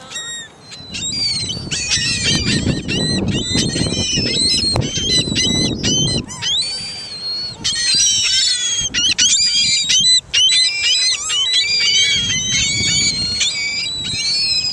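A crowd of seagulls calling over one another, many overlapping squealing cries, as they are fed.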